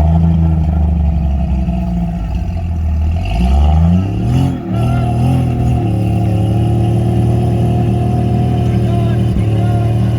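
Engine of a built off-road rock crawler running hard, revving up about three seconds in, dipping briefly, then holding a steady pitch under load.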